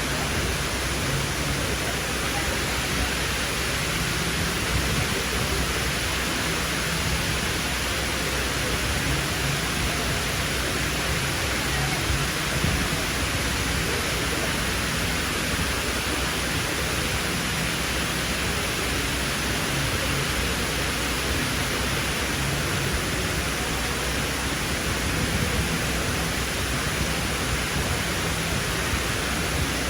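Steady rush of falling water from the Dubai Mall's indoor waterfall, an even wash of noise without breaks.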